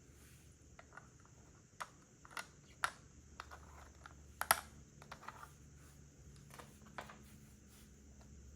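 Plastic Lego bricks being handled and pressed together: a scattered series of sharp clicks, the loudest about halfway through.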